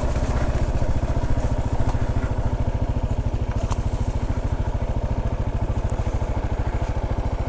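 Kawasaki KLR 650's single-cylinder four-stroke engine running steadily at low revs, an even train of about a dozen pulses a second.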